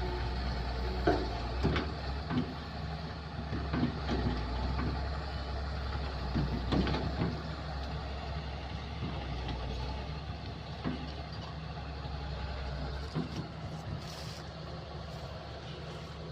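Kobelco excavator's diesel engine running steadily, with scattered knocks and clanks, most of them in the first half. Its low drone eases about thirteen seconds in.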